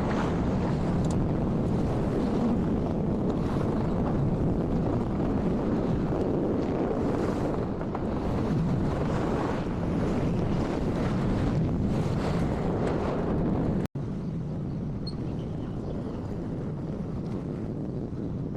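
Triumph Trident 660 inline-three motorcycle on the move: steady engine and road noise under heavy wind buffeting on the microphone. The sound cuts out for an instant about fourteen seconds in and comes back a little quieter.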